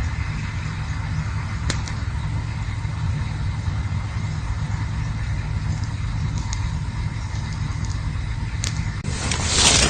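Campfire burning: a steady low rumble with a few sharp crackling pops, then a louder rush of hiss near the end.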